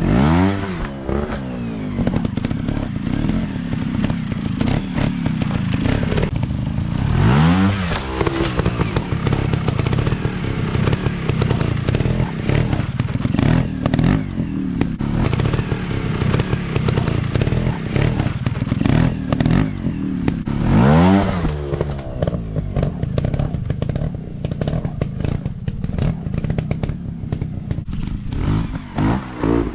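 Single-cylinder four-stroke dirt bike engine running, revved hard four times with rising pitch between spells of lower throttle. Short knocks and clatter run through it.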